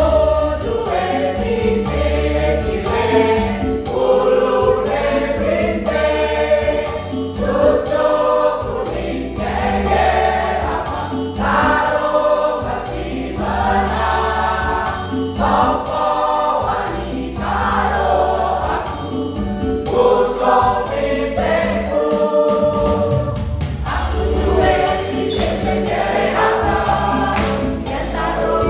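A choir singing a song, the voices moving from note to note throughout.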